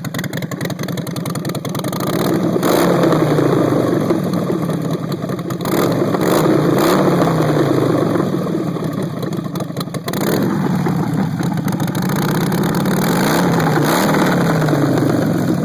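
Harley-Davidson Sportster 48's 1200 cc V-twin running through Twisted Choppers Hookah 2-into-1 header exhaust, blipped from idle several times, the pitch climbing and falling back with each rev.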